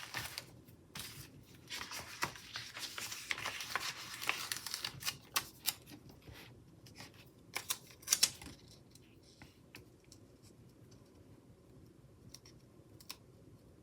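Hands handling paper and stickers on a planner page: scratchy rustling in the first few seconds, then scattered light clicks and taps that thin out in the second half.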